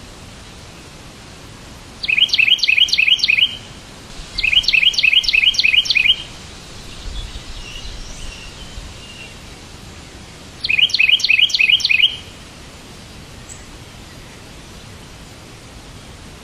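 A bird chirping in three quick bursts of rapid, evenly repeated high notes, each burst lasting under two seconds, with fainter calls between them. A steady hiss lies underneath.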